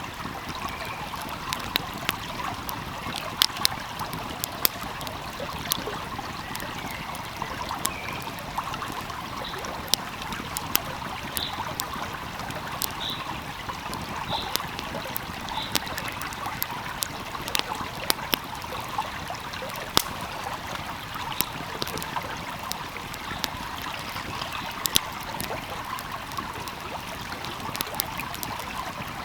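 Wood fire crackling with sharp, irregular pops over the steady rush of a flowing stream. A few faint, short high chirps come through in the middle.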